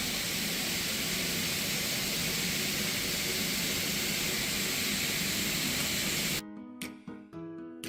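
Aluminium cutting saw running, a steady loud hiss that cuts off abruptly about six seconds in, followed by piano music.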